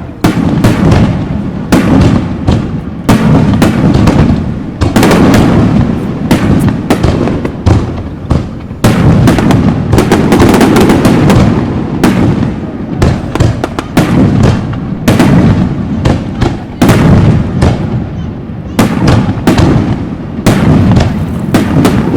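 Aerial fireworks shells bursting in a dense barrage: many sharp cracks and deep booms overlap, with a rumbling echo between them and only a few brief lulls.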